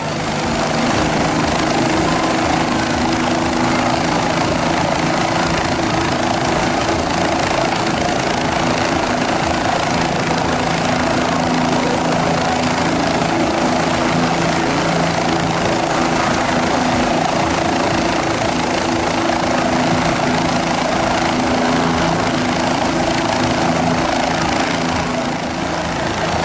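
Helicopter running steadily and loud: a dense rotor-and-engine noise with a few steady low hum tones underneath.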